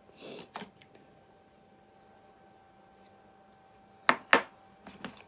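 Parts of a Lansky sharpening kit being handled: a short scrape at the start, then two sharp clicks of hard pieces knocking together about four seconds in, followed by softer taps.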